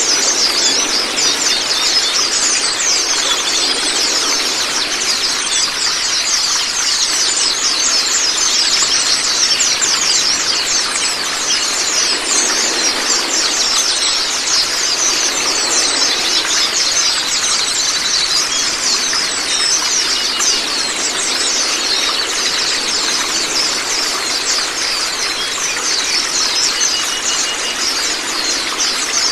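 A flock of white-eyes (Zosterops) calling at once: a dense, unbroken chorus of fast, high chirps and trills over the steady rush of running water.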